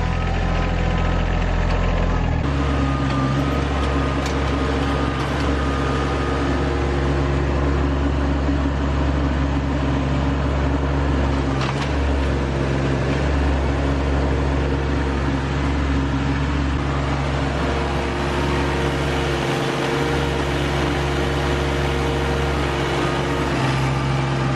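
RK25 subcompact tractor's diesel engine running steadily as the tractor pushes against a large tree stump that doesn't give. Its note changes about two and a half seconds in, then holds.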